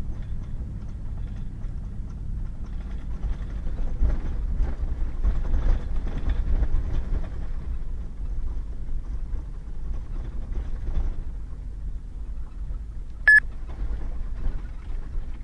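Pickup truck driving on a rough back road, with a steady low rumble of engine and tyres that turns rougher and more uneven for a few seconds. About 13 seconds in there is one short, sharp electronic beep.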